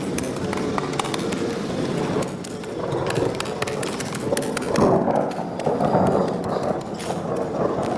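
Hand tools clearing mud and water from wet pavement: irregular knocks and scrapes over a steady wash of noise, louder for a few seconds around the middle.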